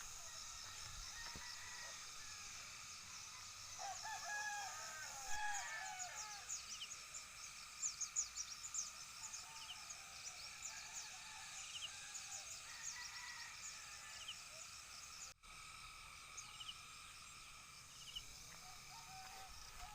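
Faint bird calls over a steady high insect drone: a wavering crowing call about four seconds in, followed by a run of quick high chirps.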